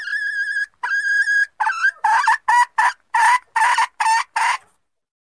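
Junglefowl hen calling as a lure for wild cocks. Two drawn-out held notes are followed by a run of about eight short clucking notes, which stop suddenly about four and a half seconds in.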